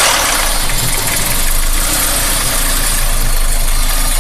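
Toyota Avensis engine running steadily at idle, heard from under the car beside the front driveshaft, which has been refitted without its balancer.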